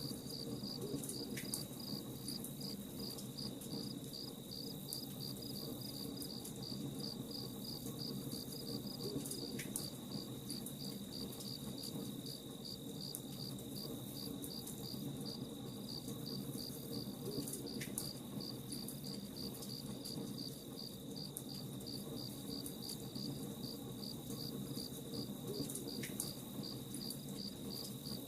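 Crickets chirping in a steady, even pulsing rhythm over a low rumble of a campfire burning, with a single sharp pop about every eight seconds.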